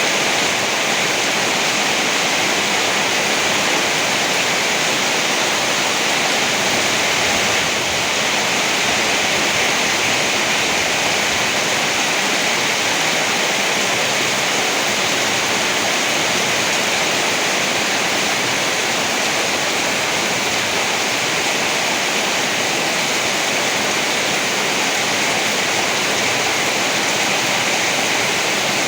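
Heavy rain falling steadily, a dense even hiss with no thunder claps or gusts standing out.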